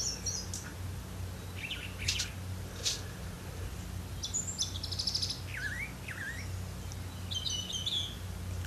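Small birds chirping, with short trills and a couple of quick dipping whistles, over a steady low hum.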